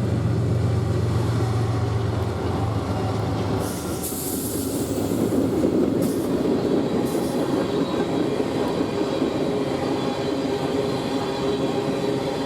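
Freight train passing: a diesel locomotive's low engine drone for the first few seconds, then the steady rumble of freight cars rolling by on the rails, with brief bursts of hiss about four, six and seven seconds in.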